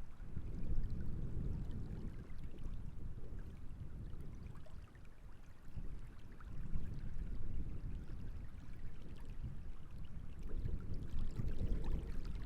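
Night wind gusting over the reservoir, a low rumble that swells and eases every few seconds, with small waves lapping and splashing faintly at the water's edge.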